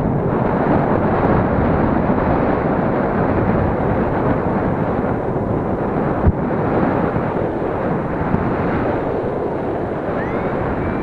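Wind buffeting the microphone: a steady loud rush with one brief knock about six seconds in.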